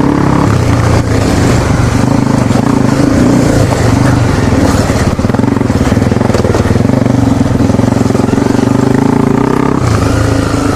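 Honda CRF250L's single-cylinder four-stroke engine running under load as the dirt bike rides along, a steady engine note that eases off near the end.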